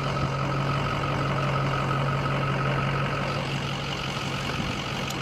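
Plow truck's engine running steadily at idle, a low even hum, with a thin steady whine over it that stops about three and a half seconds in.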